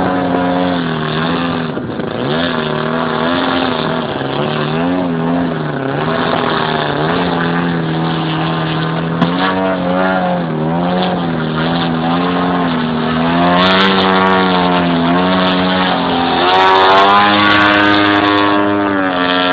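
Desert Aircraft DA-100 100cc twin-cylinder two-stroke petrol engine of a large RC model Yak 54 running loudly. Its pitch rises and falls repeatedly, with a higher, louder stretch near the end.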